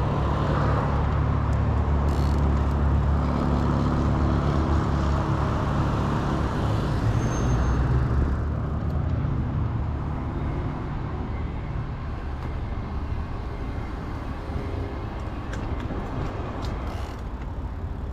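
Road traffic beside a moving e-bike: a motor vehicle's engine runs close by for about the first eight seconds, then fades, leaving a quieter rush of road and wind noise.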